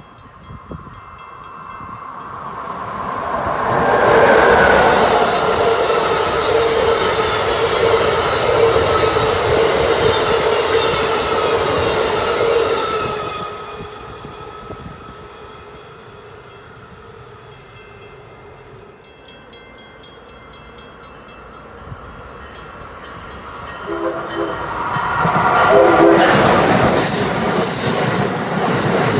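An Amtrak Northeast Regional train passes at speed, swelling over the first four seconds and fading after about thirteen. Near the end an Acela Express trainset comes in, sounding short horn blasts, and rolls past loudly with wheel noise.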